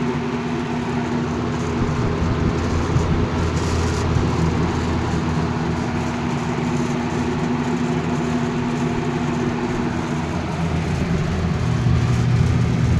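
1980 Galaxy 3713 box fan running steadily on high speed: its shaded-pole motor hums under the rush of air from the D-blades, with the back grill rattling.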